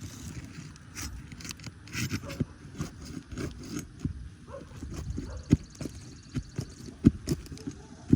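Scraping and irregular knocking of a roof snake (shingle ripper) being worked under roof shingles to reach the nails, with a couple of sharper knocks about five and a half and seven seconds in.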